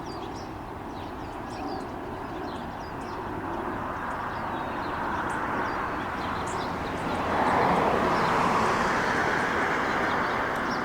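Noise of a passing vehicle that grows slowly louder and is loudest near the end, with faint bird chirps over it.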